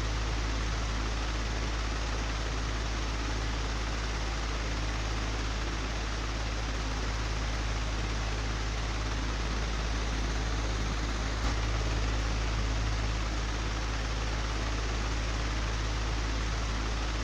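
Old, broken electric fan running steadily: a constant low motor hum under an even whoosh of moving air, with one faint click about two-thirds of the way through.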